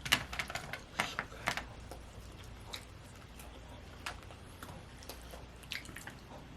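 Eating noises at a meal: a quick cluster of sharp clicks in the first second and a half, then a few scattered clicks, from cutlery and dishes being handled while eating, over a low steady hum.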